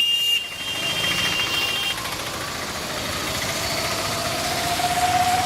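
Road traffic crossing a waterlogged street: vehicle engines running, with a steady high tone in the first two seconds and one engine rising slowly in pitch through the second half.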